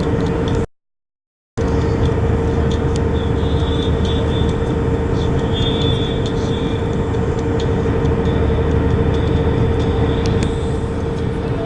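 Airliner cabin noise: the jet engines' steady drone with a strong constant hum and low rumble. The sound drops out completely for under a second near the start.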